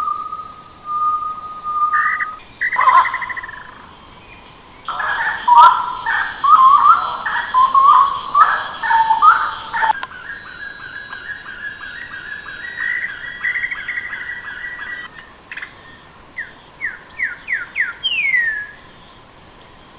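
A series of different bird calls and songs that switch abruptly every few seconds, like separate recordings joined together. The middle passage is a loud, chirpy warbling song. Near the end comes a run of quick falling whistled notes.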